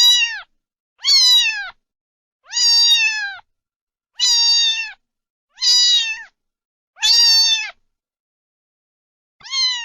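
A cat meowing over and over: seven high, clear meows about every second and a half, each one dropping in pitch at its end.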